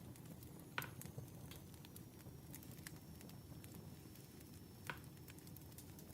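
Wood fire crackling softly: a low steady rumble of burning logs with scattered small snaps, and two louder pops, one about a second in and another near the end.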